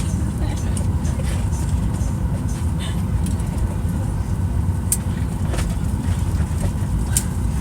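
Airliner cabin noise as the plane moves under its jet engines' power: a steady, loud low rumble, with two short clicks about five and seven seconds in.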